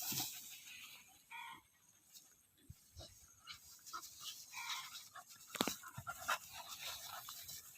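Short animal calls with scattered clicks and knocks.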